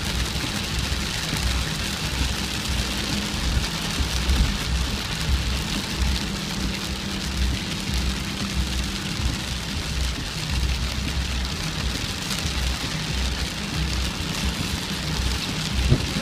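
Heavy rain falling steadily, an even hiss, with a low rumble that comes and goes underneath and a steady low hum that stops about halfway through.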